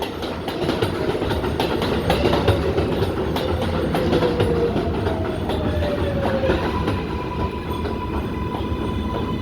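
R188 subway train running past on the (7) line, its wheels clicking over rail joints with a steady rumble. A pitched motor whine slides slowly down in pitch, then gives way to a steadier higher whine about seven seconds in.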